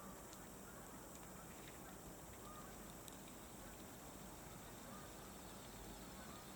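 Faint calls of a flock of geese, a few short honks scattered over a quiet, steady hiss.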